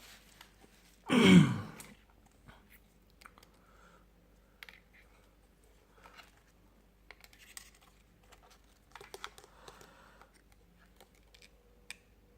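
Light clicks, taps and rustles of a replacement phone LCD and the phone's frame being handled and pressed into place. There is one louder, brief sound about a second in.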